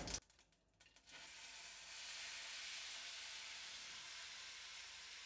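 Chopped strawberries sizzling faintly in hot oil in a steel kadhai: a steady, even hiss that starts about a second in.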